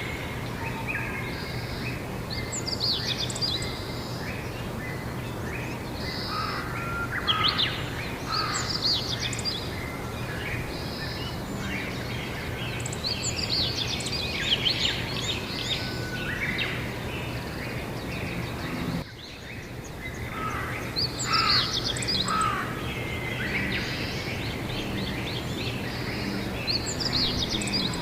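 Several wild birds singing and calling in overlapping chirps and warbles over a steady outdoor background noise with a low hum. The whole sound dips briefly about two-thirds of the way through.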